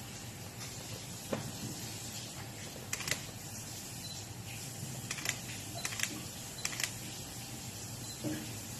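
Camera shutter firing in quick bursts, sharp clicks often in close pairs, several times over a steady room hiss.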